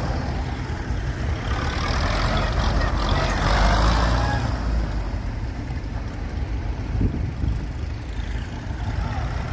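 Vintage tractor engines running as tractors drive past in convoy, a low rumble that is loudest in the first half and eases off a little after about five seconds.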